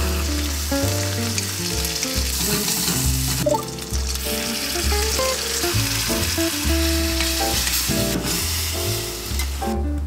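Pork belly sizzling and frying in a hot earthenware pot, with kimchi tipped in partway through. A steady sizzle runs under soft background music and stops just before the end.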